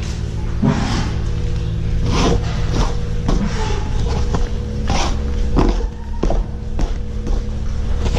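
Steady hum of milking-barn machinery, with irregular knocks and clanks over it.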